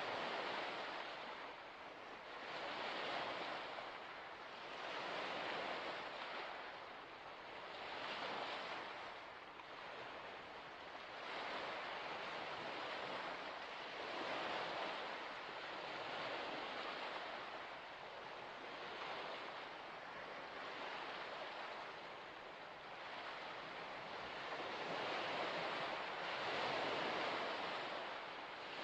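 Small waves washing onto a shore, a steady rush of water that swells and falls every two to three seconds.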